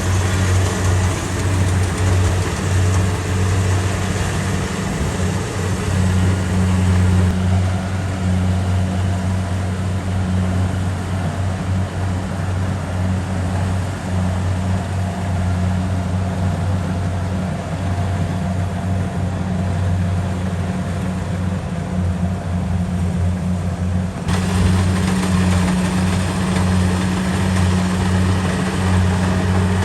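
Kubota DC70 Pro combine harvester running steadily with a low, even engine drone. About 24 seconds in, the higher-pitched mechanical noise suddenly gets louder.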